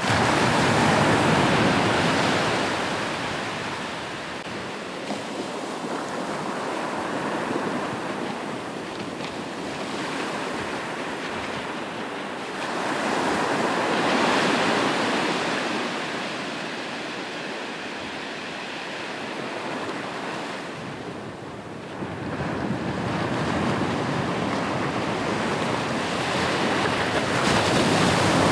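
Ocean waves breaking and washing on the shore, with four swells: one right at the start, one about 13 seconds in, one about 22 seconds in and one near the end, each fading away between. Light wind noise runs under it.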